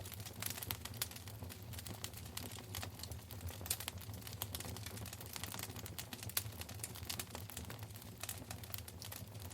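Wood fire crackling in a fireplace: irregular sharp snaps and pops over a low, steady rumble. Two of the pops are louder, near the middle.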